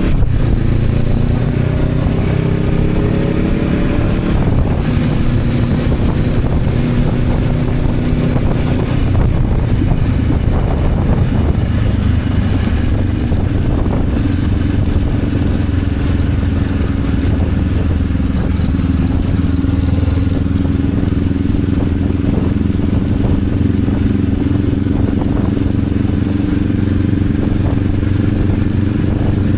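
Honda CB500X's parallel-twin engine running under way. It picks up speed in the first few seconds, shifts, then holds a steady cruising pitch, with wind noise throughout.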